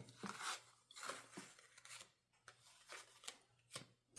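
Faint handling noises: scattered soft clicks and light rustles of packaging and merchandise being moved about by hand.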